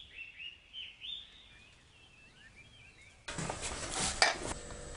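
Faint small birds chirping in short, wavering calls. About three seconds in, a louder rushing noise with a few sharp knocks cuts in suddenly.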